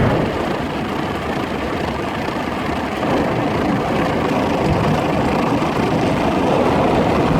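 Automatic car wash machinery with its rotating brush coming onto the car, a steady churning wash noise heard from inside the car's cabin, getting louder about three seconds in.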